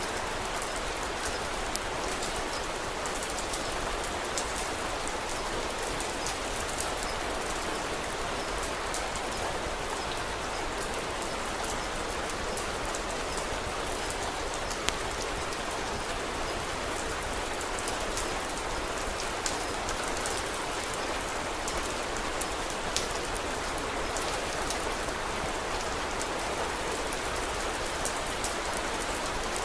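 Steady rain falling, an even hiss with scattered sharp clicks and a few louder pops, the loudest about halfway through.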